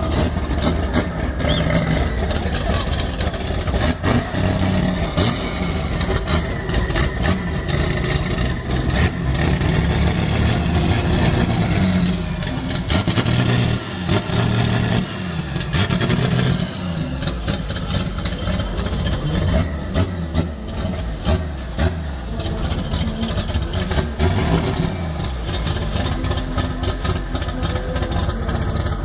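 Vehicle engines running and revving, with the pitch and level rising and falling unevenly.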